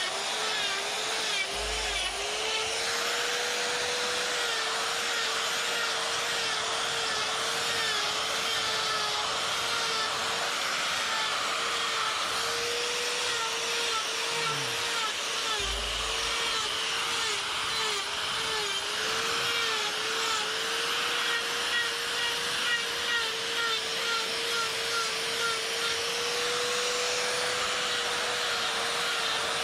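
Die grinder with a flame burr carving fur texture into wood, running steadily, its whine dipping briefly over and over as the burr bites in.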